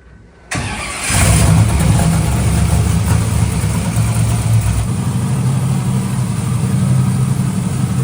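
The twin-turbo, methanol-fuelled V8 of a NASCAR truck on a dyno being started: the starter cranks briefly about half a second in, then the engine fires just after a second and settles into a loud, steady idle.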